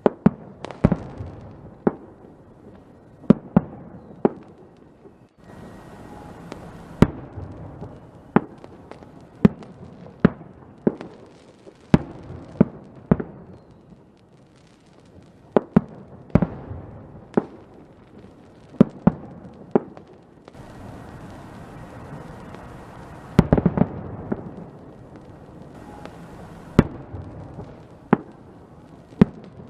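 Fireworks going off in an irregular series of sharp bangs, about one or two a second, with a quick cluster of them a little past the middle, over a steady crackling hiss.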